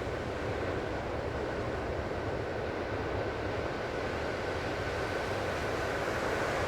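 Gentle ocean surf washing steadily on a calm sea, an even rush of water noise with a faint high steady tone underneath.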